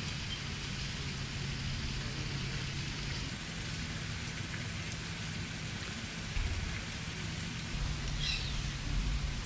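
Steady rushing hiss with a low hum underneath, a deeper rumble coming in from about six seconds, and one short high chirp, likely a bird, about eight seconds in.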